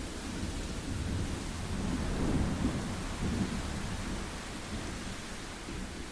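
Thunder rumbling over steady heavy rain. The rumble swells about two seconds in and slowly dies away, leaving the hiss of the rain.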